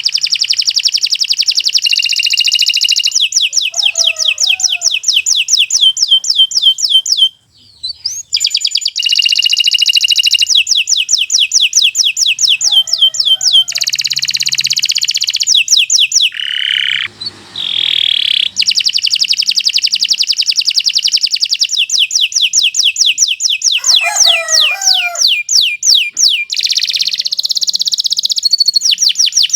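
Domestic canary singing a long, continuous song of rapid trills and quick repeated notes, breaking off briefly twice.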